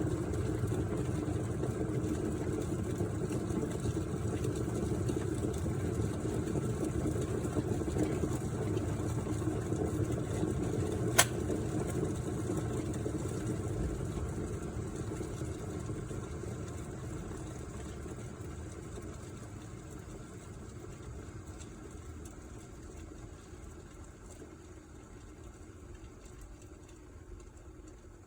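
Hamilton Beach glass electric kettle at a rolling boil, a steady rumble of bubbling water. About 11 seconds in there is a single sharp click, the auto-shutoff tripping, and the boiling then slowly dies away.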